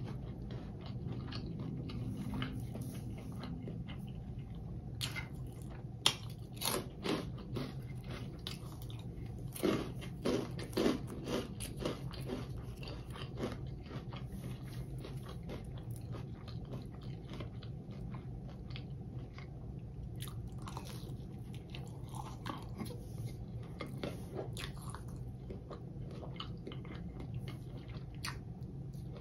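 Close-miked crunching and chewing of fried Hot Cheetos-crusted seafood. The loudest bites come in a cluster between about five and twelve seconds in, then softer chewing, over a steady low hum.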